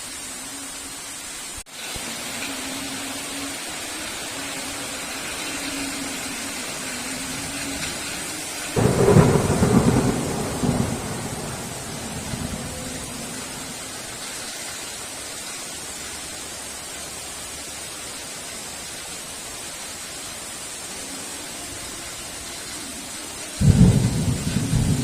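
Steady heavy rain with two sudden loud thunderclaps, one about nine seconds in and one near the end, each rumbling for a second or two before fading back into the rain. A brief dropout in the rain comes near two seconds in.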